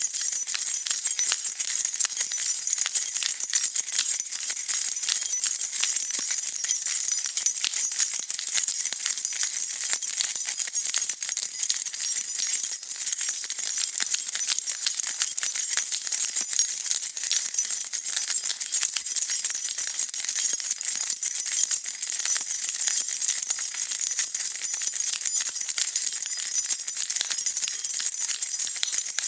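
A bunch of metal keys shaken continuously, jingling and rattling in a steady, dense stream of small clinks.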